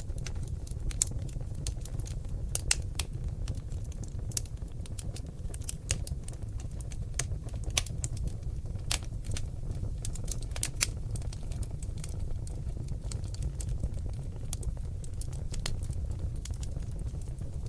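Seasoned oak logs burning in an open fireplace, crackling and popping: irregular sharp snaps, a few louder than the rest, over a steady low rumble of the flames.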